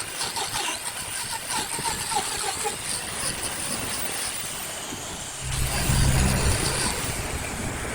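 Steady mechanical noise, joined about five and a half seconds in by a loud low steady hum that fades after a second or two.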